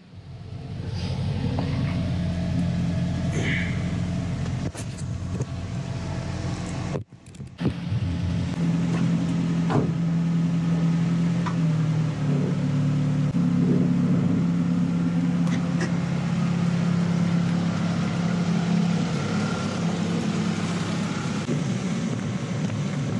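A small car's engine running at low speed as the car rolls slowly over a pen lying on the driveway, heard from close to the ground. The engine note steps up and holds partway through, with a few brief clicks.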